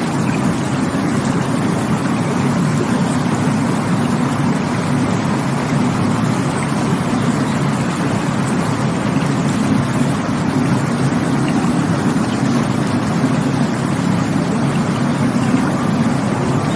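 Rushing water running steadily, a deep, even rush with no surges or breaks.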